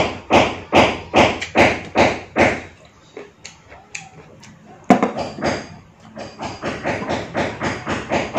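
Cleaver or heavy knife chopping on a wooden cutting board, with steady strokes about two or three a second. After a lull, one loud chop comes about five seconds in, followed by quicker, lighter chops.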